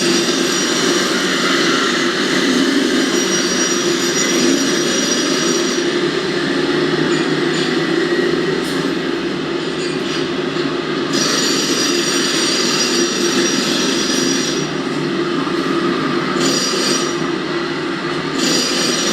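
Dense, steady mechanical noise with thin high squealing tones that come and go, suggestive of a train running on rails.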